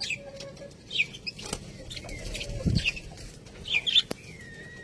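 Budgerigars chirping in short, scattered calls, with a longer gliding call near the end and a couple of sharp clicks.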